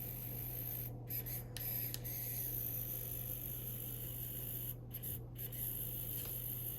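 3D pen feeding filament: its small feed motor gives a steady low hum with a faint high hiss, which stops for a moment twice about a second in and twice again about five seconds in.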